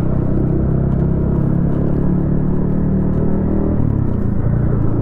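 Yamaha XSR155's single-cylinder engine running through a DIY exhaust at steady riding revs, its note shifting lower about four seconds in.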